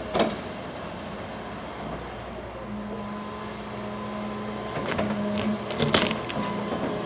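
Diesel engine of a large excavator running steadily, with a few sharp knocks about five and six seconds in.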